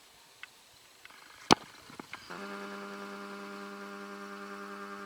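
A single sharp click, then a steady, unwavering pitched tone held for about three and a half seconds that cuts off suddenly.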